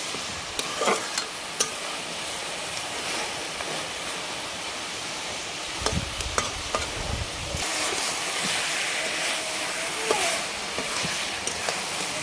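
Mutton sizzling as it fries in its own juices in a pan, which are cooking off to leave the meat dry. Occasional clicks and scrapes come through it. A brief low rumble about six seconds in is followed by louder sizzling.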